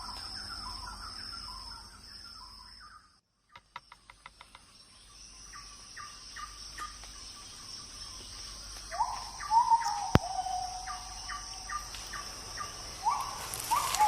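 Forest night ambience: insects keep up a steady, high-pitched chirring while an animal gives repeated short calls that drop in pitch. The sound cuts out briefly about three seconds in, followed by a run of quick ticks, and a single sharp click comes about ten seconds in.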